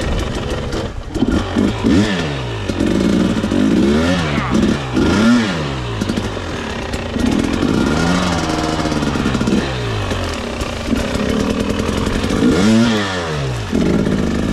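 300cc two-stroke dirt bike engine being ridden, revving up and backing off again and again as the throttle is worked, its pitch climbing and falling every second or two.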